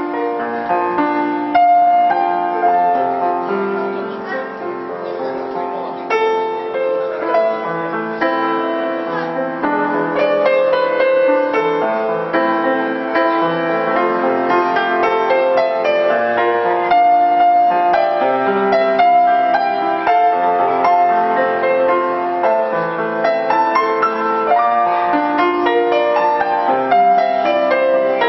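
Piano playing a slow melodic piece, notes sustained and overlapping.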